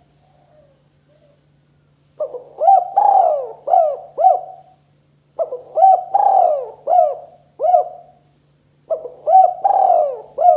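Spotted dove (tekukur) cooing: three phrases of four or five coos each, a few seconds apart, with a steady low hum underneath.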